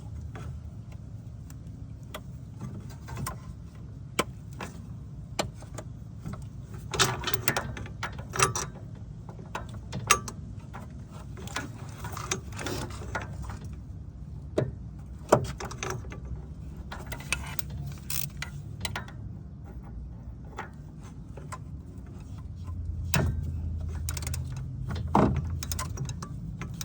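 Hand tools working a bolt loose on a car's AC compressor: irregular metallic clicks, clinks and knocks, some sharp and loud, over a steady low hum.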